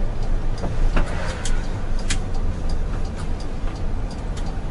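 Concrete mixer truck on the road: steady low engine and road rumble, with a regular light ticking, about two to three ticks a second, and a brief sharper sound about a second in.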